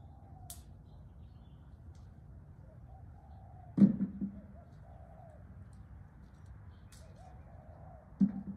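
A bird cooing softly again and again in low, rounded calls. Two short dull thumps stand out, about four seconds in and again near the end, louder than the cooing.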